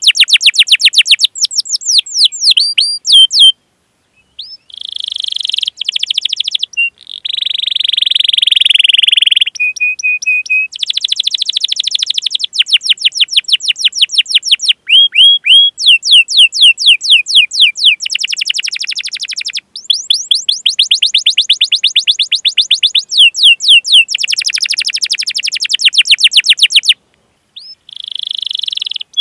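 Domestic canary singing a long song: fast trills of sharp, downward-sweeping chirps, broken by buzzy rolls and short whistled notes, with brief pauses about four seconds in and near the end.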